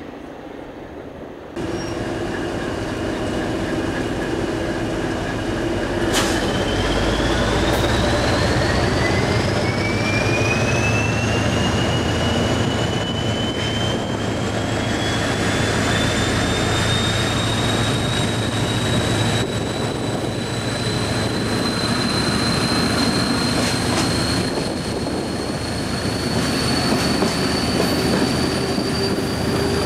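Train running, with a steady rumble and a high whine that rises slowly and smoothly in pitch as it gathers speed. The sound jumps louder about a second and a half in.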